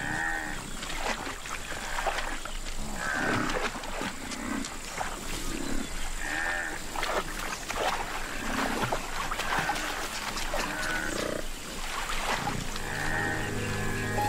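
Wild water buffalo calling with low grunts every second or two as the herd moves through grass, with rustling and footfalls between the calls.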